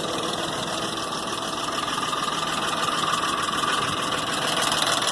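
Ford V8 engine idling with a steady, rapid tapping, which the owner first took for an exhaust manifold leak but later traced to failed hydraulic lash adjusters in one cylinder head.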